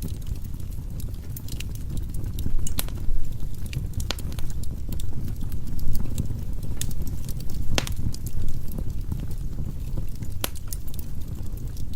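Firewood burning in a fireplace: a steady low rumble of the flames with irregular sharp crackles and pops, a few louder pops scattered through.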